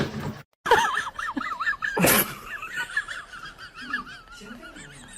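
Rapid, high warbling chirps from an animal, repeated continuously, with a brief loud noisy burst about two seconds in.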